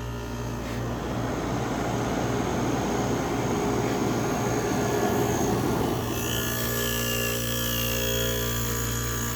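Vintage Emerson Radio 8,000 BTU window air conditioner running just after start-up. Its compressor hums steadily under the rush of its pretty loud fan; the air noise swells over the first few seconds and eases about six seconds in, leaving a steadier hum.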